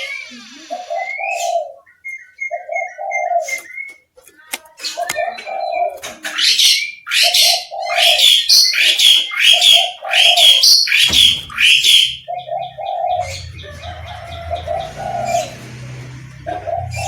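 An oriental magpie-robin (kacer) sings a varied song of loud whistles and chirps, densest and loudest in the middle. Low cooing notes repeat about once a second underneath. A low steady hum comes in about eleven seconds in.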